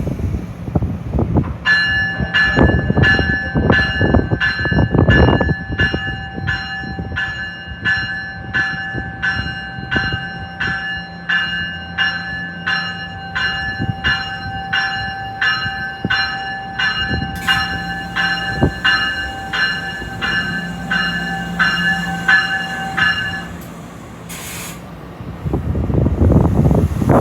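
Train bell ringing steadily, about one and a half strikes a second, over the low rumble of a moving NJ Transit Multilevel train. The bell stops near the end as the rumble of the passing cars grows louder.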